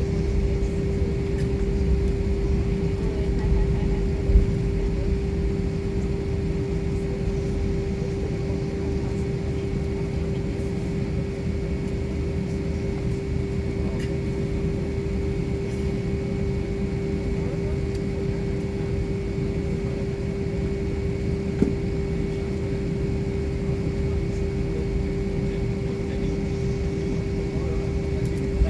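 Airliner cabin noise: a steady low rumble of engines and airflow with a constant hum running through it. Two brief knocks sound, one a few seconds in and one past the middle.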